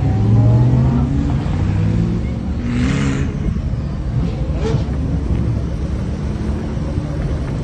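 Sports car engines revving and accelerating away in low gear, pitch rising over the first two seconds, then a steady rumble as the cars drive off. A short hissing rush comes about three seconds in.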